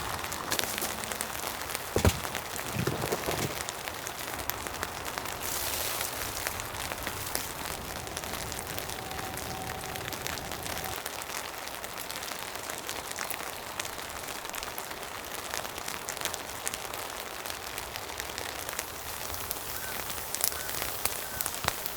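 Steady rain falling, with many individual drops ticking, and a single sharp knock about two seconds in.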